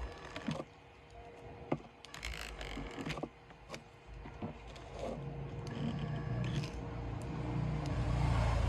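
Light clicks and short scrapes of small tools and parts being handled during a phone's disassembly, then a low rumble that builds up over the second half and is loudest near the end.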